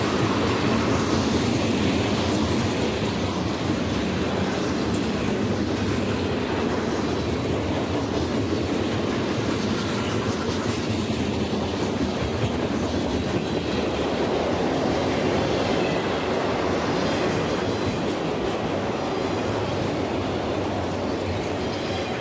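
Canadian Pacific mixed freight train's cars rolling past on the rails, a steady, unbroken noise of wheels on track.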